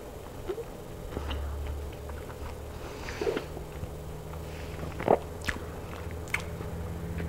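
Close-miked chewing of baked chicken, with wet mouth clicks and smacks; a sharper click about five seconds in.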